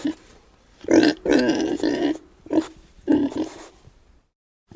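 Pig grunting: a longer run of grunts about a second in, then two short grunts, and the sound cuts off suddenly near the end.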